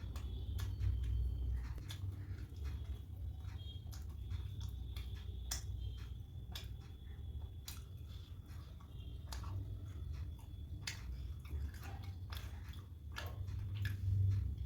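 Close-miked chewing of soft poori with curry: wet mouth clicks and smacks coming irregularly, over a faint steady high tone.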